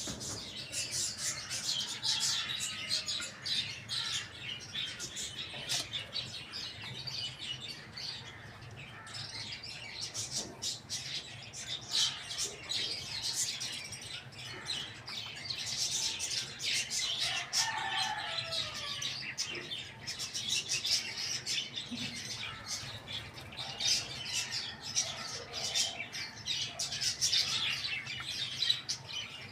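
Many small birds chirping and tweeting continuously, a dense run of short high calls, with a few lower calls about two-thirds of the way through.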